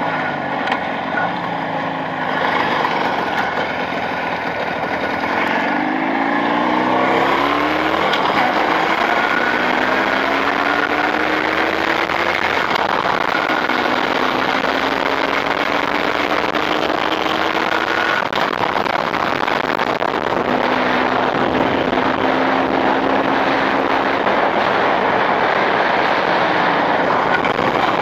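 Motorcycle engine, newly fitted with Chinese cylinders and being run in, pulling up through the gears on the road: the engine note rises in several runs, each cut off by a gear change, over a steady rush of wind and road noise.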